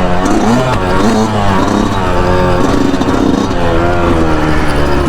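2019 Yamaha YZ125's single-cylinder two-stroke engine running under riding, its pitch rising and falling repeatedly with the throttle.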